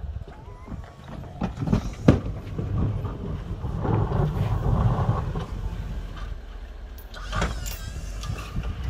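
The engine of a snow-clearing vehicle running with a low rumble, swelling in the middle. A few sharp knocks sound in the first two seconds, and a brief higher-pitched sound comes near the end.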